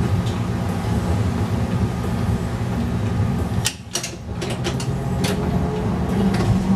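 Replica 1920s-style streetcar running: a steady low rumble with a cluster of sharp clicks and rattles. The sound dips briefly about four seconds in.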